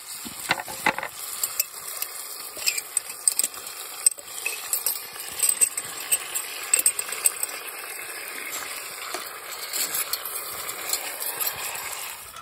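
Meatballs and beans sizzling in a hot cast-iron Dutch oven over coals, with a metal utensil scraping and clinking against the pan in frequent short ticks as the food is stirred.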